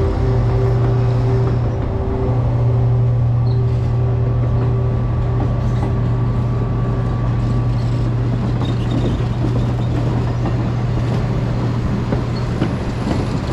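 Train locomotive running steadily with a deep, loud hum. Several higher steady tones fade out about two-thirds of the way through.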